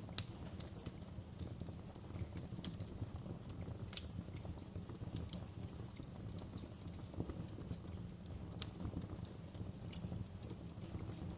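Wood fire crackling in a fireplace: irregular sharp pops and snaps over a steady low rumble, with one louder pop just after the start.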